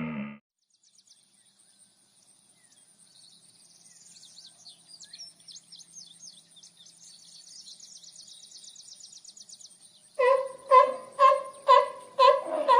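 Faint, fast, high chirping and ticking, then from about ten seconds in an animal giving a loud call over and over, about two calls a second.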